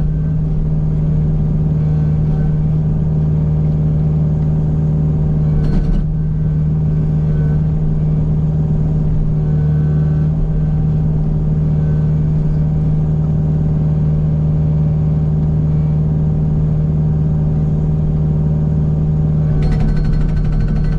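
Kubota U55 mini excavator's diesel engine running steadily at working speed. Short bursts of rapid knocking from the Agrotk 680 hydraulic hammer come about six seconds in and again near the end.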